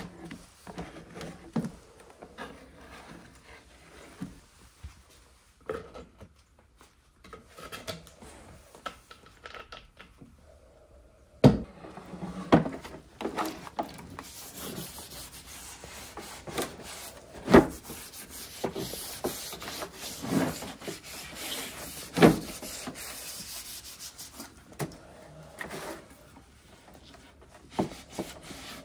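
Hand work on the wooden table: rubbing and rasping strokes on wood, with several sharp knocks of wood.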